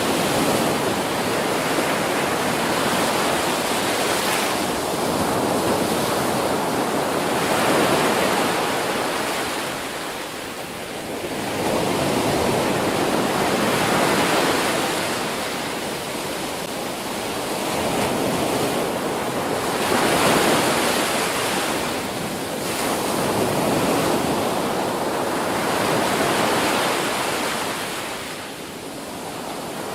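Ocean surf: waves breaking and washing up a beach, the rush of water swelling and easing every few seconds.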